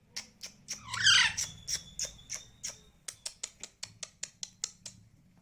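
A spoon tapping repeatedly in quick sharp clicks, speeding up to about five taps a second. A brief harsh squawk comes about a second in.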